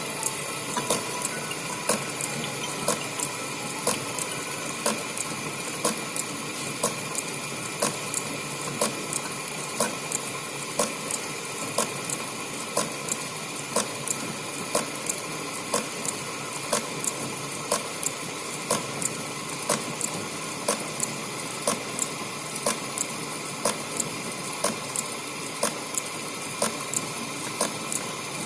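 Lathe running steadily while a countersink held in the tailstock is fed into the spinning workpiece, drilling and countersinking a centre hole. Sharp clicks repeat roughly once a second over the steady machine noise.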